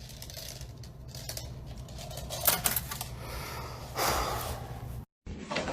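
Small hard objects clattering and rustling with scattered sharp clicks, louder about two and a half and four seconds in, cutting off abruptly shortly before the end.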